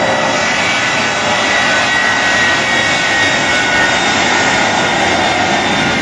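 Shockwave jet truck's three Westinghouse J34 jet engines running, a steady loud roar with a high turbine whine over it.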